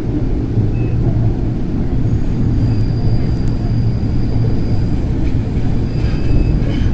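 Light-rail train running, heard from inside the car: a steady low rumble of wheels on the track, with a faint high whine joining about two seconds in.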